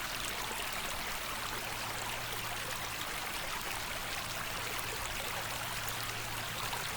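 Creek water running steadily, an even rushing and trickling of the stream.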